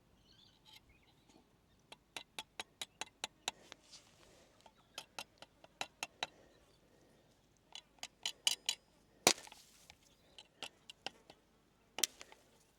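Stick-welding rod powered by two car batteries wired for 24 volts, tapped and scratched against a steel bracket to strike an arc. It gives runs of sharp snaps and crackles, the loudest a little after 9 seconds, and the arc never holds: hard to start.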